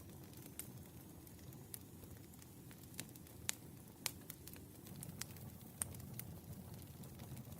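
Firewood burning: a low steady rush of flame with irregular sharp crackles and pops, the loudest few a little past the middle.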